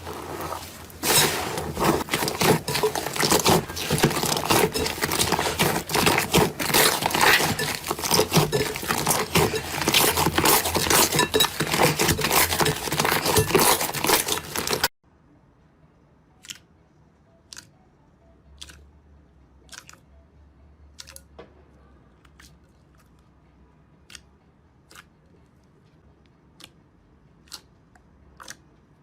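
Dense, crackly crunching of a crunchy material being crushed by hand for about fifteen seconds, which then stops abruptly; after that it is much quieter, with faint single clicks about once a second.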